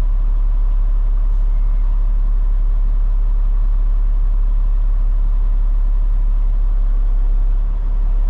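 Heavy diesel engine of a Peterbilt 589 dump truck running steadily at low revs, a deep even rumble.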